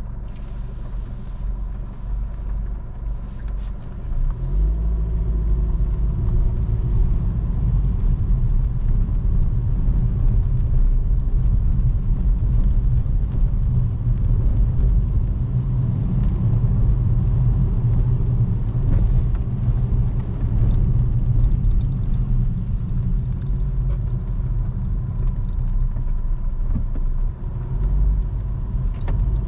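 Car engine and road rumble, heard from inside the car. The engine pulls away from a low, quiet run about four seconds in, rising in pitch, then settles into steady driving rumble.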